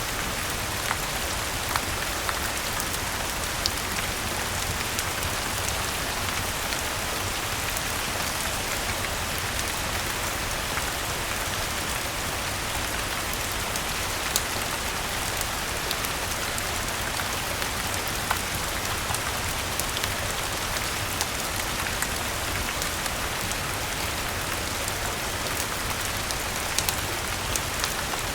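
Steady rain mixed with a wood fire crackling: a continuous even hiss with scattered sharp pops and ticks.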